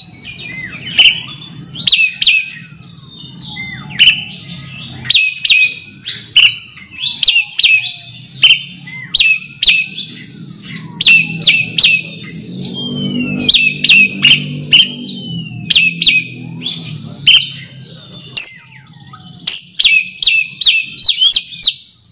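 Oriental magpie-robin (kacer) singing its rival-challenge call: quick runs of sharp whistled and scratchy notes with short gaps between, over a faint low hum.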